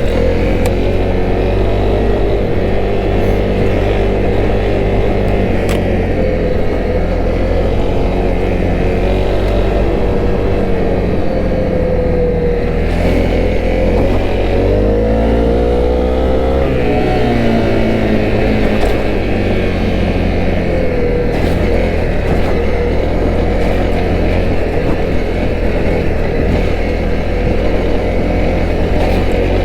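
Honda CRF250L's single-cylinder engine running steadily as the bike is ridden. About halfway through, the engine pitch drops and then climbs again.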